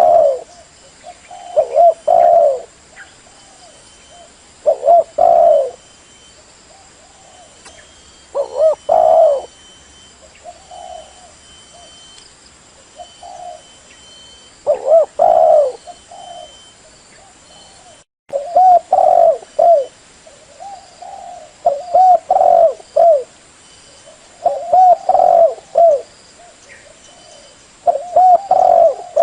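Spotted dove cooing: loud coo phrases repeating every few seconds with softer coos between them, a decoy call meant to draw wild doves in. The sound cuts out for an instant about two thirds of the way through.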